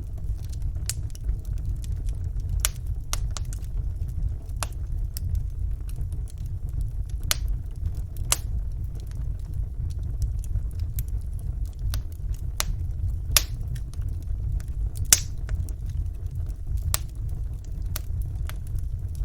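Wood fire burning in a fireplace: a steady low rumble of flames with irregular sharp crackles and pops from the burning logs, two of them louder about two-thirds of the way through.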